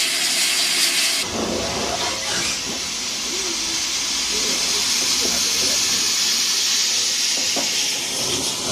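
Steam locomotive hissing steam steadily. About a second in the sound changes abruptly, and a low rumble joins the hiss.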